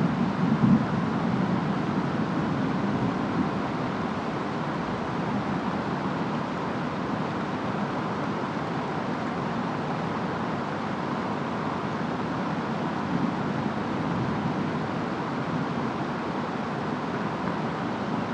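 Steady rain and wind of a storm, an even rushing hiss, with a low rumble of distant thunder dying away over the first few seconds.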